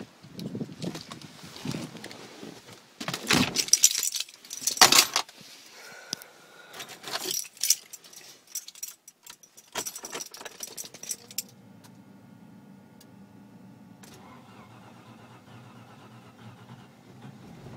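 Car keys jangling, with clicks and knocks as they are handled, for roughly the first two-thirds. Then a faint, steady hum sets in and runs on quietly.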